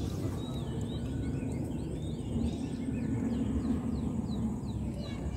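Birds chirping: a rapid run of short, downward-sweeping chirps, about two or three a second, over a steady low background rumble.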